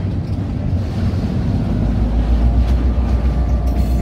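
Train running, heard from an open car: a steady rumble of rolling, which about a second and a half in gives way to the deep, evenly pulsing rumble of a diesel locomotive's engine running just ahead.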